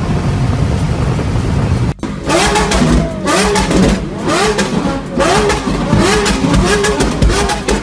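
Car engine through a loud aftermarket exhaust, first running with a steady low rumble. After a sudden break about two seconds in, it is revved in short repeated blips, each rising and falling in pitch, a little under two a second.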